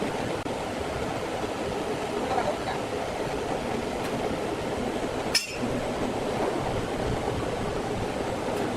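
Sawmill machinery running steadily, with one sharp metallic clink about five seconds in.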